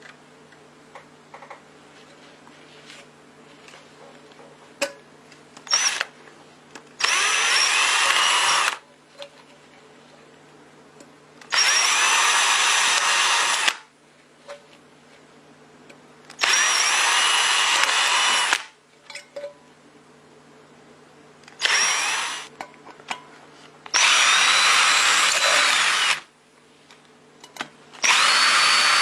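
A small electric power tool runs in short bursts of about two seconds, six times, its motor whine rising as it spins up each time. Light clicks and handling noises come between the bursts.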